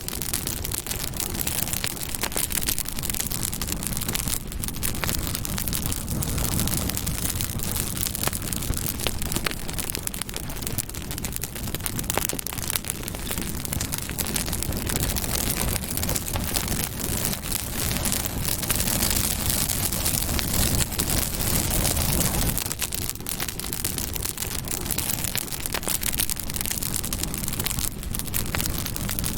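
Campfire burning: a steady rush of flame thick with continuous small crackles and pops.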